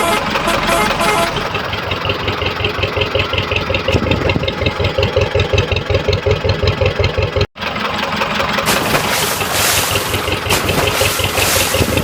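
A vehicle engine idling with a steady chugging rhythm. It cuts out for an instant a little past halfway and comes back with more hiss on top.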